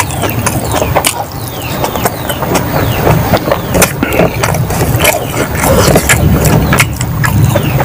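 Close-up chewing of a mouthful of rice, with many sharp, wet lip-smacks and mouth clicks, and fingers mixing rice and curry on a plate.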